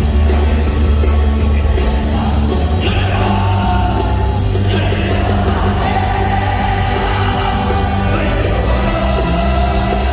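Live Korean praise music: a band with heavy bass and a steady drum beat, with a voice singing over it.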